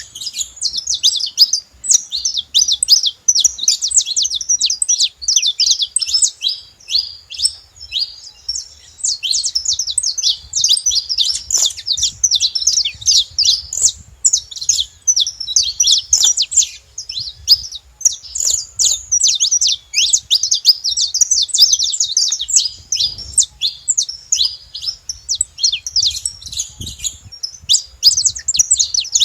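Saffron finch chirping and singing loudly and without pause, a dense run of rapid, high, sweeping chirps.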